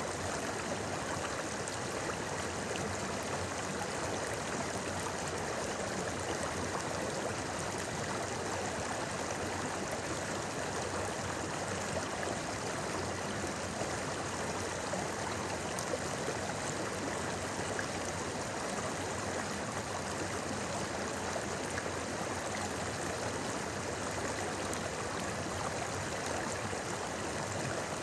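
Shallow river babbling steadily, an even, unbroken rush of flowing water.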